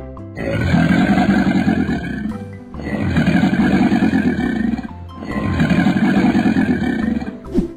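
Crocodile growl sound effect: a deep, rough growling roar, three times, each about two seconds long, over background music.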